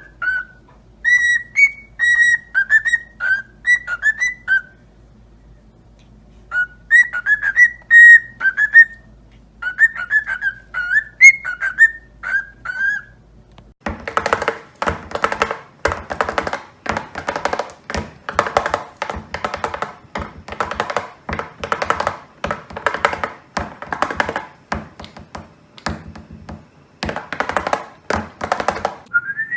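A pet parrot whistling a tune in short bursts of notes with pauses between them. About halfway through, a dense, rapid, rhythmic music-like sound takes over until near the end.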